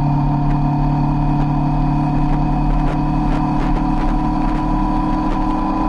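Sport motorcycle engine running at a steady cruise, heard from on board the bike, its pitch holding constant with no revving.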